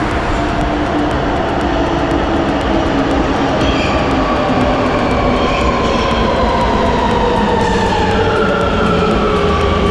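Amsterdam metro train running, with steady rolling noise and a motor whine that rises slowly in pitch as the train gathers speed.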